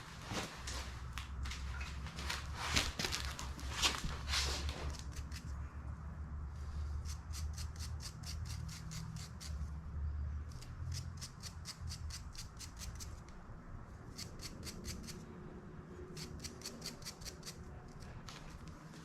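Hand work on small metal heater-control parts. First come several rubbing or scraping strokes, then runs of quick, even ticking at about four a second, starting and stopping a few times, over a low steady hum.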